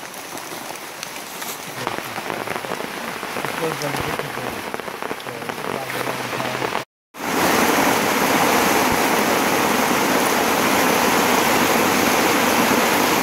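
Rain falling on rainforest foliage, growing louder over the first few seconds; after a brief break about seven seconds in, a louder, steady downpour.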